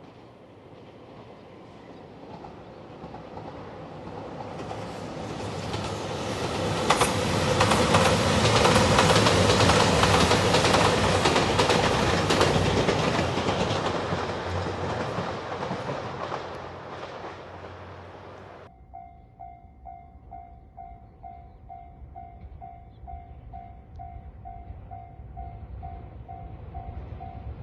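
A train approaching and passing at speed, its wheels clicking over the rail joints as it goes by, then fading away. About two-thirds of the way in the train noise drops out suddenly, and a level-crossing warning bell rings at a steady beat of about two strokes a second.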